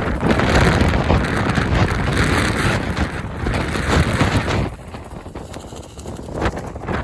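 Strong wind buffeting the microphone with a loud, rumbling gusting. It drops off sharply about two-thirds of the way in.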